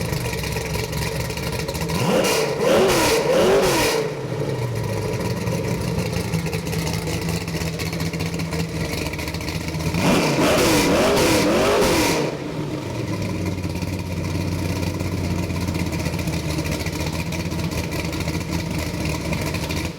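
A 327 Chevy small-block V8 with a thumper camshaft idling with a lumpy grumble. It is revved twice, about two seconds in and again about ten seconds in, each time with a couple of quick rises and falls in pitch before dropping back to idle.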